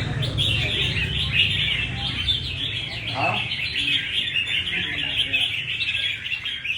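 Several caged red-whiskered bulbuls singing and chirping at once, a dense run of overlapping high chirps with no break.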